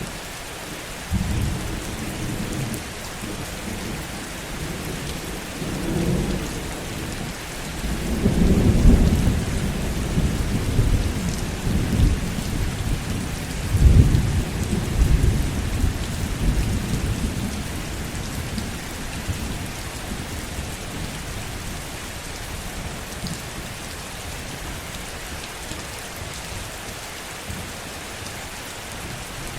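Steady heavy rain with thunder rumbling in low swells: a short roll about a second in, a longer rolling peal building from about 8 seconds and peaking twice, then fading out so that only the rain is left in the last third.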